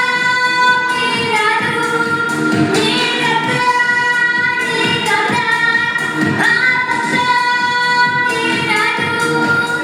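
A female voice singing a Russian pop song with long held notes over an instrumental backing track.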